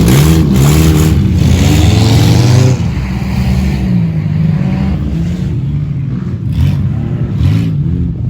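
Race car engines revving on the track as cars go past, their pitch rising and falling with throttle and gear changes. Loud for the first three seconds or so, then quieter as the cars move away.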